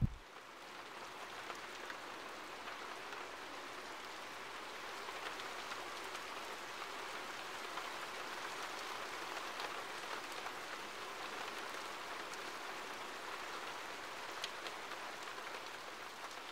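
Steady rain falling, an even hiss with an occasional faint drip.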